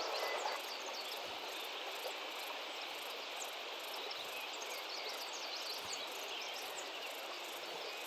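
Insects chirring steadily in open country, with a faint pulsing high trill and many short, high chirps scattered throughout.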